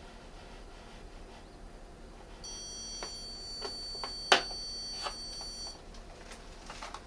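Zircon multi-scanner stud finder sounding a steady high electronic beep for about three seconds, its detection signal while scanning the wall. Several sharp clicks or knocks come during the tone, one much louder than the others.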